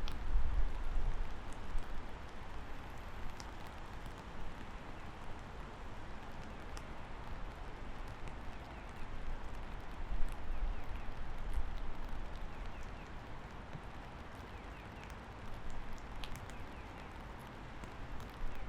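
Steady rain falling, with a low rumble that swells at the start and again about ten seconds in.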